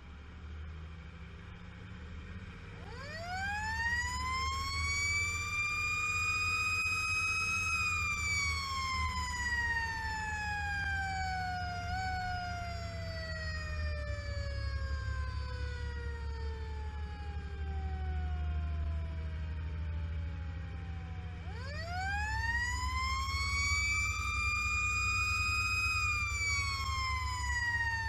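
Spartan fire engine's siren winding up twice. Each time it climbs quickly to a high pitch, then falls slowly over about a dozen seconds. The truck's engine runs with a steady low rumble underneath.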